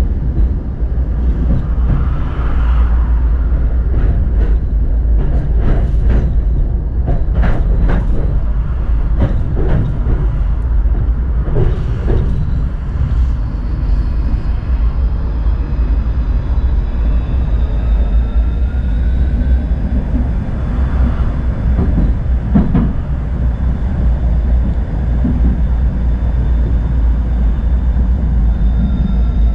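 Tram running along its track, with a heavy steady rumble. About a third of the way in comes a run of sharp clacks from the wheels on the rails, and a faint rising whine past the middle.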